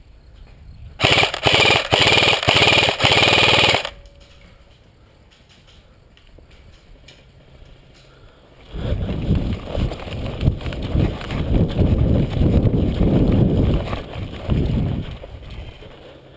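Airsoft rifle firing on full auto in a few quick bursts for about three seconds, starting about a second in. Several seconds later a low, irregular rumbling buffets the microphone for about six seconds.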